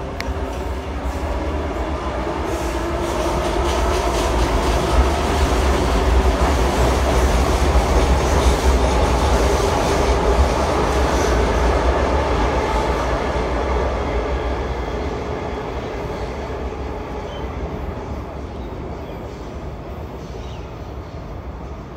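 Sydney double-deck electric suburban train passing on the viaduct: wheels on the rails and a motor whine, growing louder to a peak about halfway through, then fading as the train runs away.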